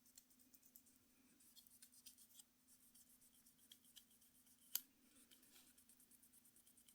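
Faint small ticks and light scratches of hand work with small tools, with one sharper click about five seconds in, over a low steady hum.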